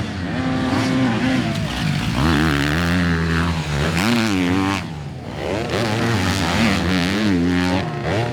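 Motocross bike engines racing on track, revving up and falling off again and again as the riders work the throttle and gears.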